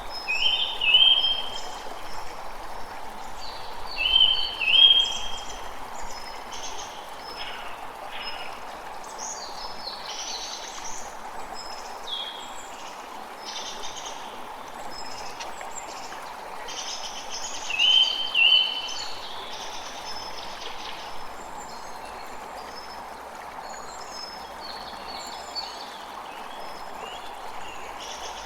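A creek running steadily, with songbirds calling over it. One bird's short double phrase stands out loudest: once about a second in, again about four seconds in, and again around eighteen seconds in.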